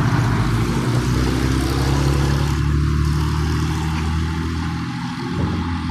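Tatra T3SU tram running, a steady low drone with a hiss above it.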